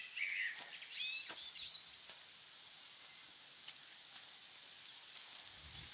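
Small birds chirping outdoors during the first two seconds, then faint background hiss.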